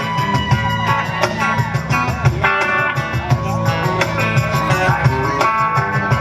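Live rock band playing amplified through a PA: electric guitar lines over a pulsing bass and drum groove.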